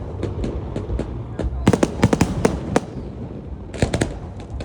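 Fireworks display: rapid strings of sharp bangs and crackles, bunched in quick volleys about two and four seconds in, over a steady low rumble.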